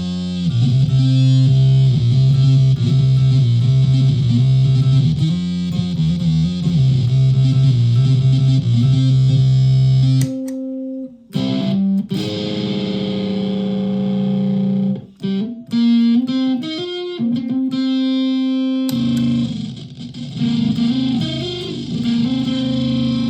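Solid-body electric ukulele played through a home-built clone drive/fuzz pedal and a PA speaker, giving a distorted tone. A low riff of changing notes stops abruptly about ten seconds in, and is followed by held notes and chords with short breaks between them.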